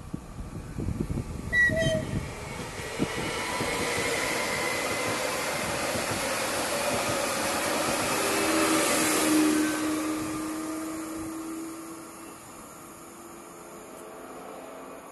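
Electric multiple-unit train running past the platform: a rushing rumble with a steady motor hum that builds to its loudest about nine seconds in, then fades as it moves away. Wind gusts on the microphone in the first couple of seconds.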